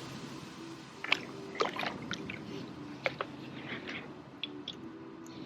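Small water splashes and drips close to a kayak, a scatter of short wet ticks over a low background wash of water.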